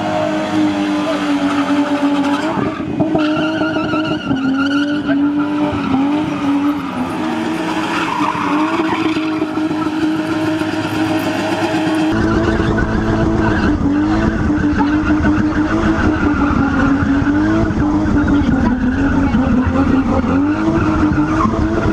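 Spinning cars' engines held at high revs, the revs wavering slightly, while the rear tyres spin and screech on the tar. About halfway through, the sound is heard from inside a spinning car's cabin, with a heavier low rumble under the engine.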